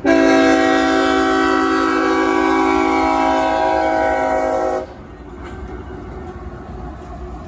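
Diesel freight locomotive's multi-note air horn sounding one long, steady blast that cuts off suddenly after about five seconds, followed by the rumble of the train rolling past.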